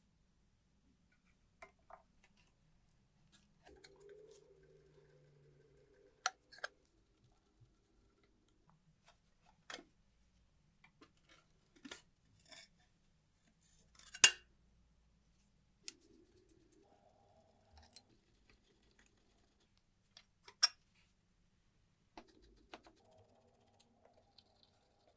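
Scattered metallic clicks, clinks and short scrapes from handling the old rusty arithmometer and its parts, with sharper knocks about six, fourteen and twenty-one seconds in.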